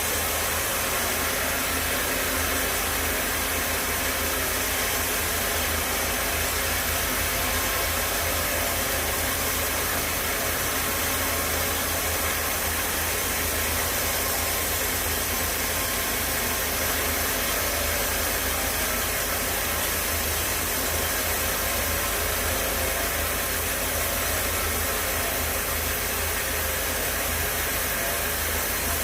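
Sawmill saw running with a steady, even noise that holds the same level and pitch throughout.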